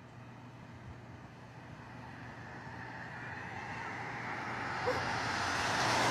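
SEPTA Regional Rail train approaching, its running noise growing steadily louder and brighter over a steady low hum.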